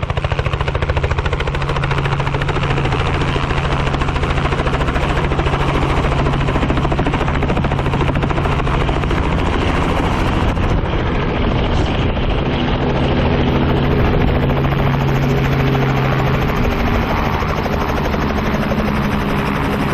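Helicopter running close by, a steady loud mix of rotor and engine noise as it comes in to land.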